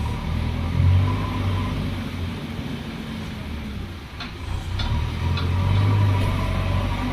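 Diesel engine of heavy earthmoving machinery running under load, its revs rising about a second in and again in the second half. Three short high clicks come between the two rises.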